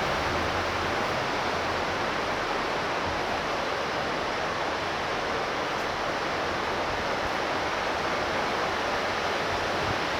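Heavy tropical downpour: torrential rain falling as a steady, even hiss.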